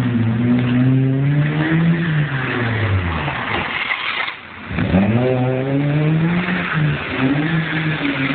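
Peugeot 106 with a loud exhaust, driven in low gear. The engine revs climb and fall back over the first three seconds, drop away briefly about four seconds in, then climb again and hold with short breaks near the end.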